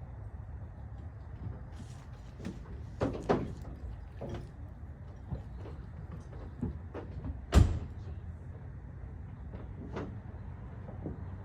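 Clunks and knocks around the pickup, the loudest a single slam like a truck door shutting about seven and a half seconds in, over a steady low rumble.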